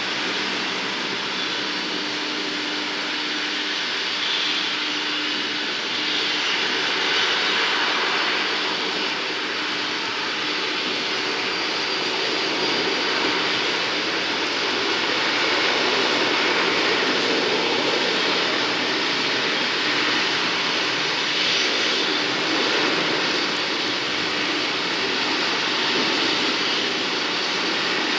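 Jet aircraft engines running, a steady, even noise with a faint hum underneath that swells slightly about midway.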